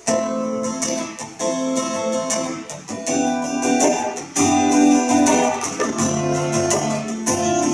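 A live band plays a song's instrumental intro. Strummed guitar chords start suddenly, and the music grows fuller, with lower notes, about halfway through.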